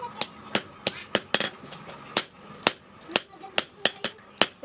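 Hand hammer striking steel on an anvil in a steady run of sharp blows, about three a second, each with a brief metallic ring: forging the sprocket steel.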